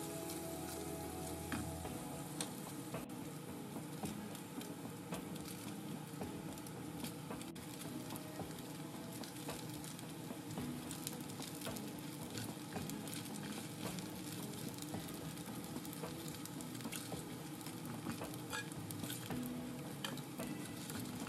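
Paneer cubes sizzling as they fry in hot oil in a stainless steel pan, with a steady crackle of small pops, while a spatula scrapes along the pan and turns them.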